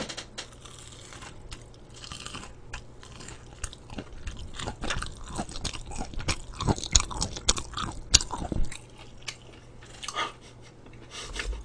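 Close-miked crunching and chewing of crispy deep-fried battered food (Korean twigim): a dense run of crackling bites through the middle that thins out to a few near the end.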